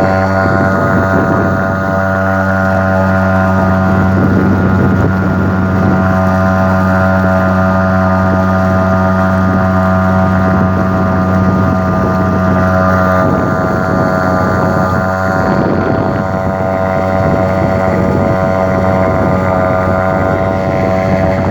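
HDX 2.6 hp outboard motor running at a steady speed, driving a small boat along.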